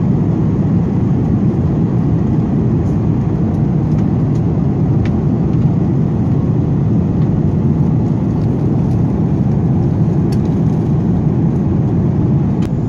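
Airbus A330-300 cabin noise: a steady, loud rumble of the jet's engines and airflow heard from inside the economy cabin, with a few faint ticks and rattles.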